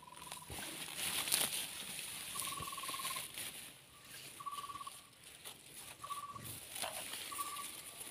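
A bird calling: about five short, buzzy trilled notes, each under a second and spaced roughly a second and a half apart. Under them runs a steady high insect buzz, with a few rustling clicks.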